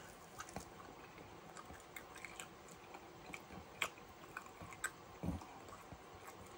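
A person biting into a chicken wing and chewing it close to the microphone: faint, scattered wet mouth clicks and smacks, with a soft low thump about five seconds in.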